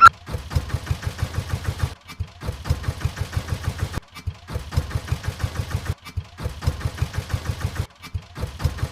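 Diesel tractor engine chugging in a quick, steady beat of low thumps, about eight a second. It is cut into stretches of about two seconds by brief breaks.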